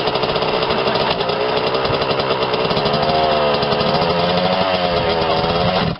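Motocross bike engine running hard, its pitch rising and falling with the throttle, then cutting off suddenly at the end.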